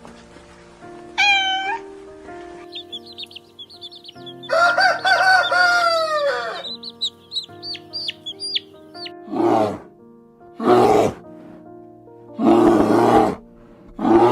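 A rooster crows once, in a long call that falls away at the end, over background music, with high cheeping chirps around it. Near the end come four short, harsh, noisy calls.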